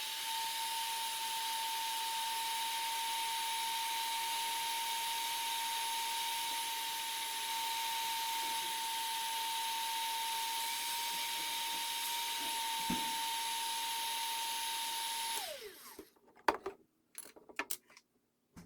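Hot-air soldering gun blowing steadily, its fan giving a steady whine over a rushing hiss while it heats an LED off a donor board. About 15 seconds in it is switched off and the whine falls away, followed by a few light clicks of handling.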